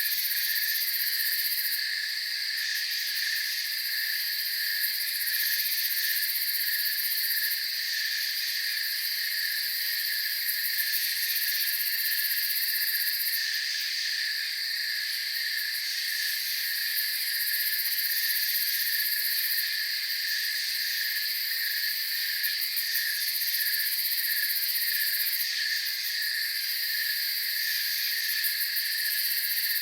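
Night chorus of crickets: a steady, unbroken trilling with a quick regular pulsing chirp beneath a high, continuous shimmer.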